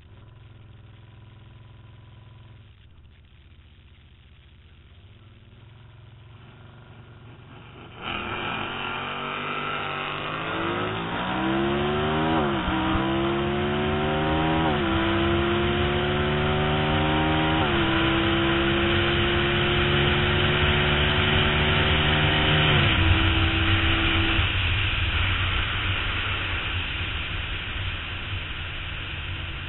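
Can-Am Spyder three-wheeled motorcycle's engine idling at the drag strip start line, then launching hard about eight seconds in and revving up through the gears, its pitch climbing and dropping back at each of several upshifts. Wind rushes over the onboard microphone at speed, and the engine is throttled back near the end of the run.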